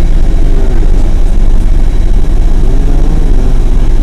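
Loud, steady low rumble of a road vehicle, heaviest at the very bottom end.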